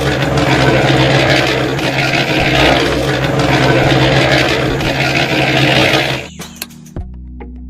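A small motor-driven machine running with a steady hum and a rough grinding noise over it. It stops abruptly about six seconds in, leaving a few faint clicks and knocks.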